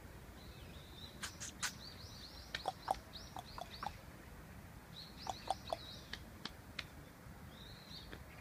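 A small bird chirping: quick runs of short, high notes with sharp clicks among them, one run about two seconds in and another about five seconds in, with a few faint chirps between.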